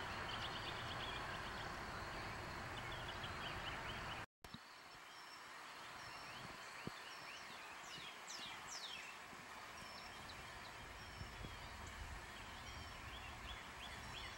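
Faint outdoor ambience: a steady background hiss with small birds chirping repeatedly and a few quick falling whistles. The sound drops out briefly about four seconds in, then the ambience resumes slightly quieter.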